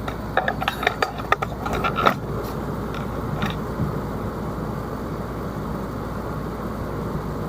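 Air conditioner running close to the microphone, a steady loud rush of air. Over the first three and a half seconds there is a quick run of light clicks and knocks.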